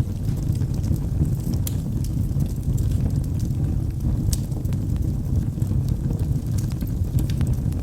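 Logs burning in a fireplace: a steady low rumble of the fire with frequent small crackles, and a couple of sharper pops, one just under two seconds in and one past four seconds.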